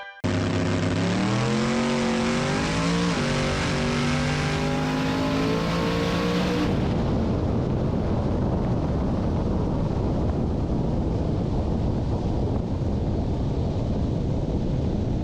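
Drag-racing truck engine at full throttle on a pass, its pitch climbing and dropping back at each gear change. About seven seconds in the engine note stops and a steady rushing noise of the coasting truck carries on.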